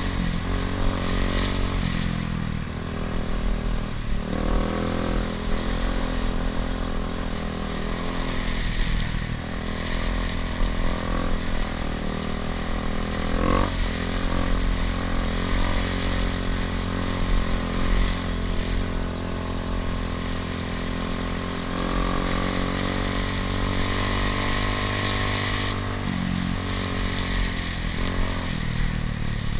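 Dirt bike engine running under way, its pitch rising and falling several times with throttle and gear changes, over a heavy low rumble.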